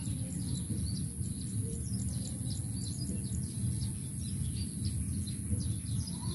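Small birds chirping repeatedly, many short high chirps that fall in pitch, several a second, over a steady high hiss and a low rumble.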